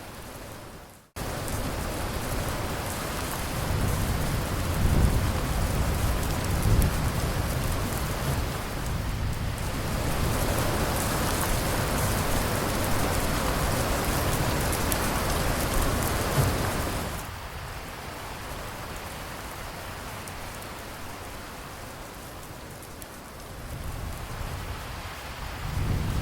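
Heavy rain falling steadily, with low rolls of thunder rumbling under it. The sound cuts out for an instant about a second in, and the rain eases somewhat later on before the thunder builds again near the end.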